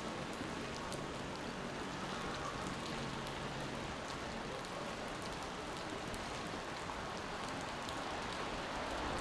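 Steady rain falling on a city street, with a few faint drop ticks.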